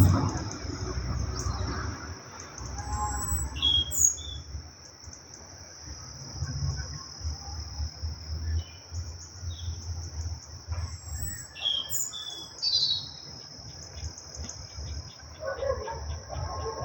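A steady, high insect chorus of crickets or cicadas, with short bird chirps now and then, mostly around four seconds in and about twelve seconds in, over a low rumble.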